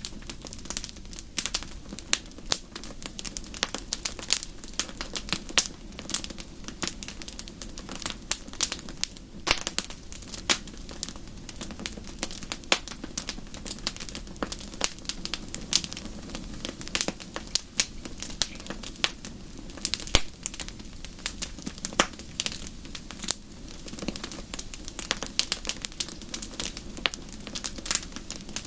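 Wood fire crackling and popping in a fireplace: dense irregular snaps over a steady low rushing of the flames.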